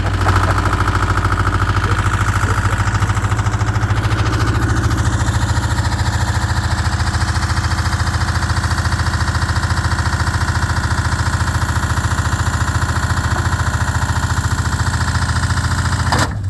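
Washing machine spinning fast with stones inside the drum: a steady, loud low hum with rapid, even rattling knocks from the stones. A sharp knock sounds near the end.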